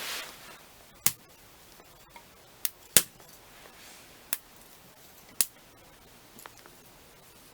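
Burning firewood crackling: sharp, irregular pops from the logs, about five loud ones and a few fainter ones, the loudest about three seconds in, over a quiet background. A soft hiss of the fire fades out at the very start.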